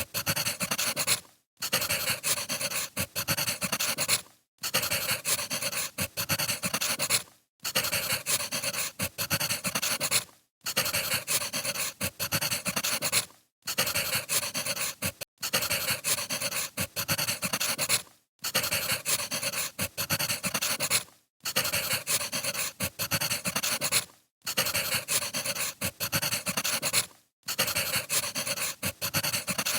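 Firewood burning with dense, steady crackling and popping, broken by brief drop-outs about every three seconds.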